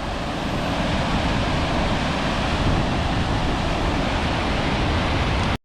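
Water rushing steadily over the Río Salado waterfall, a loud even roar that cuts off suddenly near the end.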